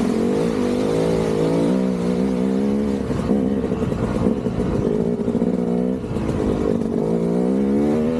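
KTM 200 dirt bike's single-cylinder two-stroke engine being ridden on and off the throttle, its pitch rising and falling as the revs climb and drop. The revs dip briefly about six seconds in, then climb again.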